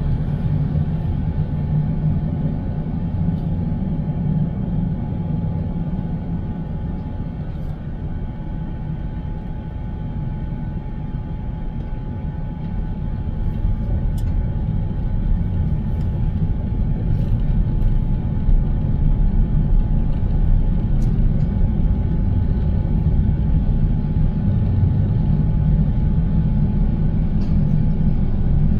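Steady low road and engine rumble of a car heard from inside while driving, with a faint steady hum above it; it grows louder from about halfway through.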